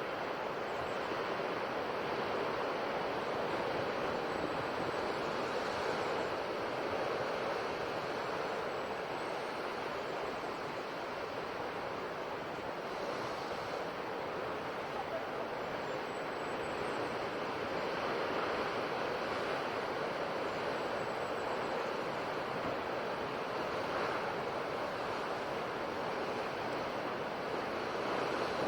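Ocean waves breaking on a shore in a steady, continuous wash, swelling and easing slightly every few seconds.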